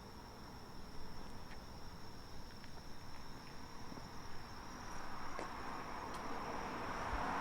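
Night insects singing one steady high-pitched note. A few faint ticks sound through it, and from about five seconds in, the rushing noise of an approaching vehicle swells and grows louder toward the end.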